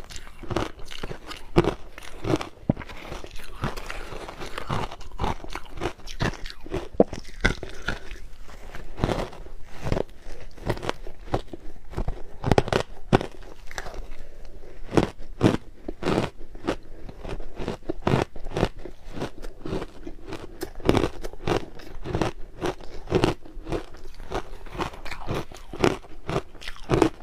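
Crushed ice being bitten and chewed, a continuous run of sharp, irregular crunches several times a second.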